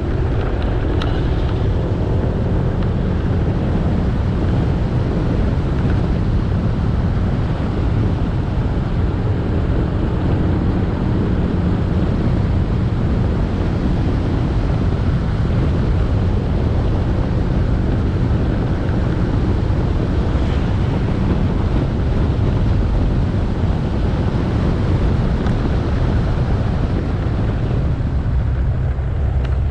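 Motorbike engine running steadily while riding, with wind rushing over the helmet-mounted microphone and road noise.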